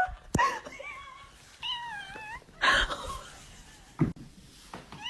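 A cat giving two short, wavering meows, about one and two seconds in, with a few sharp knocks and a brief noisy burst between them.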